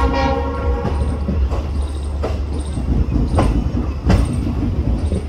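Indian Railways passenger train rolling along jointed track, heard from an open coach door: a steady heavy rumble with a few irregular sharp wheel clacks over rail joints and points. The tail of a horn blast fades out in the first half second.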